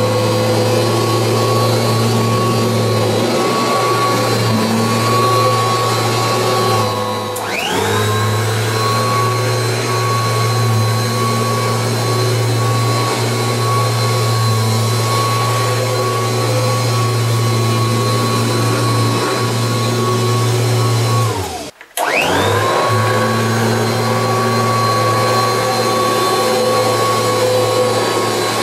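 Kirby Heritage 2 upright vacuum cleaner running with a steady motor whine and hum. Twice the sound dips and the whine climbs back up in pitch, briefly near the end of the first third and again, with a momentary near-silence, about three quarters through.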